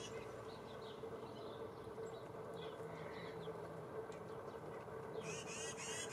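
Small songbirds at a feeder calling faintly, with a quick run of repeated chirps about five seconds in. A steady low hum lies underneath.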